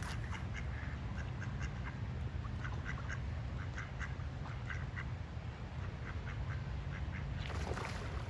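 A group of ducks quacking, many short calls one after another, over a steady low rumble. A brief rush of noise comes near the end.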